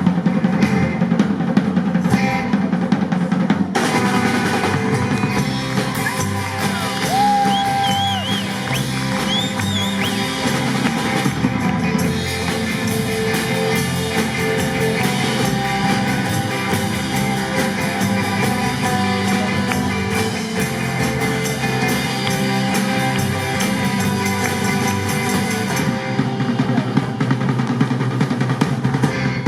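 Live rock band playing an instrumental passage, with a busy drum kit to the fore and a lead instrument bending and holding notes a few seconds in.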